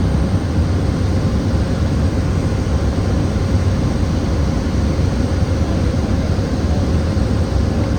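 Cessna 208B Grand Caravan's single turboprop engine and propeller running in flight, heard as steady cabin noise: a low, even drone with a faint constant hum above it.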